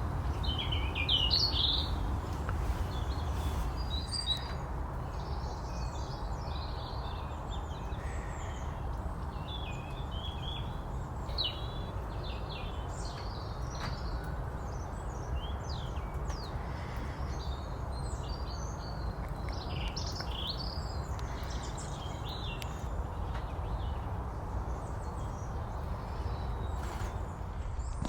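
Small songbirds, tits among them, calling around a feeder: many short high chirps and twittering calls scattered throughout, over a steady low rumble.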